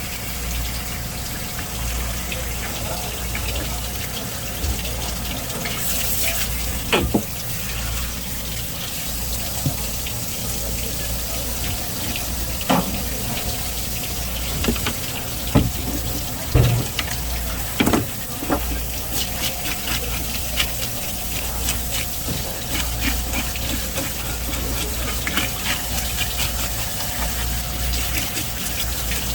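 Water running steadily, with a few sharp knocks now and then.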